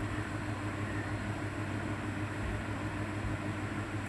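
Steady low hum with a hiss, unchanging throughout, with no speech.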